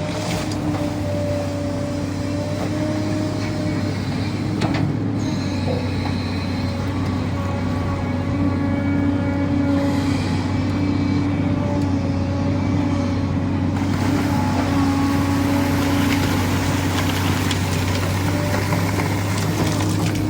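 SANY excavator's diesel engine running steadily under working load, with a constant low hum and a steady higher whine over it.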